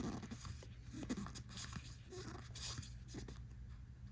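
Faint, soft ticks and rustles of trading cards being slid and flipped through one at a time by hand, over a low steady hum.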